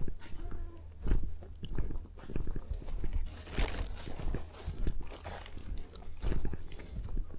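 Footsteps crunching and thudding on forest ground, about one to two steps a second, heard close as he walks.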